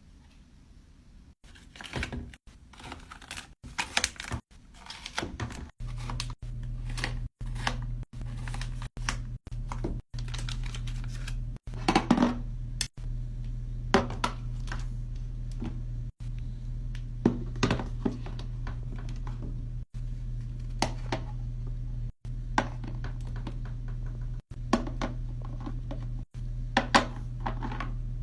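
Small makeup and skincare containers clicking and knocking as they are handled and set down, in quick irregular taps. A steady low hum comes in about six seconds in and continues under the taps.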